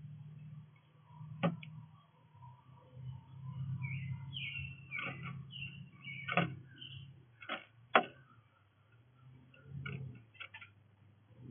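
Small birds chirping briefly at a bird feeder, with several sharp taps or clicks, the loudest about eight seconds in, over a steady low hum.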